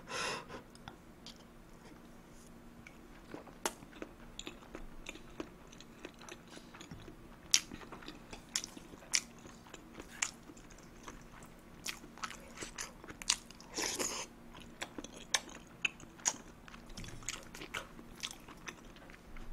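Close-miked chewing of kimchi fried rice and ramen: soft, wet mouth clicks and small crunches at irregular intervals.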